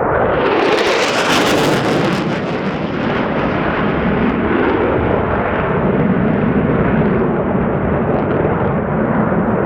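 Boeing EA-18G Growler jet, its twin turbofans loud and roaring, passing close. A harsh crackle swells about half a second in and peaks over the next two seconds, then the hiss dies away and a steady rumble remains as the jet moves off.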